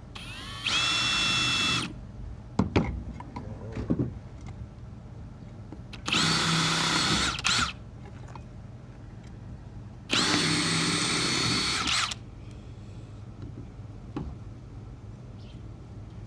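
Electric drill with a 9/64-inch bit drilling a hole, run in three short bursts. Each burst spins up into a steady whine. There are a few sharp knocks between the first and second bursts.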